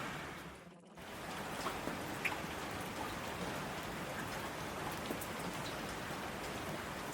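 Recorded steady rain falling, with scattered drop ticks. It dips away to near silence in the first second, then comes back abruptly and carries on evenly.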